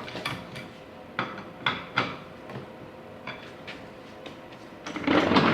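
Workshop clinks and knocks of tools and metal parts as the engine is fitted back into the motorcycle frame: a handful of separate sharp taps, then a louder, longer scraping noise near the end.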